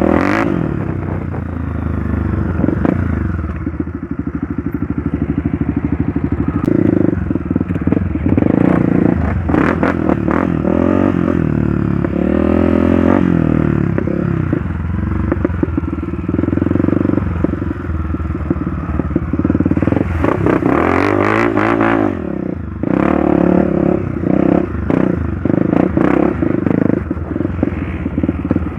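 Trail motorcycle engine running steadily under way, its revs rising and falling several times, with frequent short clattering knocks.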